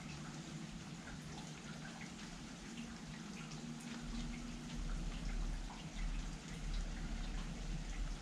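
Rain falling, with scattered individual drops ticking against a steady hiss of rain. A low rumble comes in about four seconds in.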